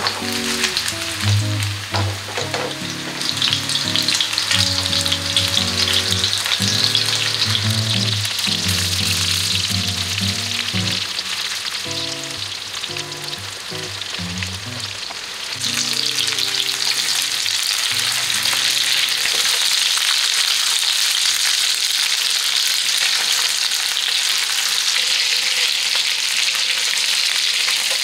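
Chicken meatballs shallow-frying in hot oil in a pan: a steady sizzle with fine crackling, growing louder a little past halfway.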